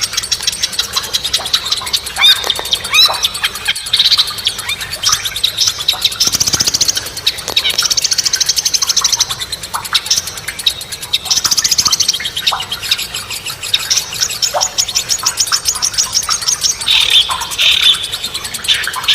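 Songbirds singing: a dense run of sharp chirps and clicks, broken several times by rapid high trills that last a second or two each.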